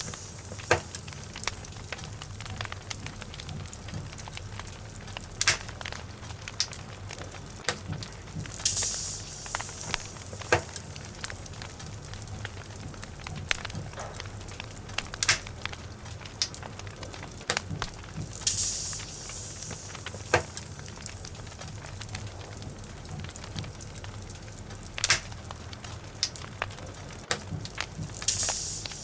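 Wood logs burning in a fireplace: a steady low rumble of flame with irregular sharp crackles and pops, and a brief hiss about every ten seconds.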